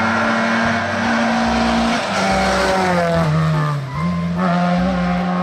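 Car engine sound running at a steady pitch, dipping lower a little past three seconds in and coming back up, over background music with a steady beat.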